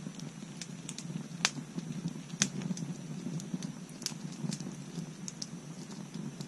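Wood bonfire crackling: many small irregular pops over a steady low rumble, with three sharper, louder pops at about one and a half, two and a half and four seconds in.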